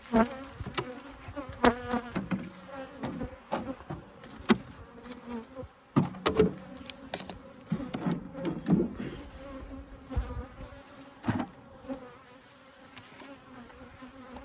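Honeybees buzzing in a steady hum around an open, crowded hive. Sharp knocks and clicks of hive frames and wooden boxes being handled break in repeatedly, louder than the buzz.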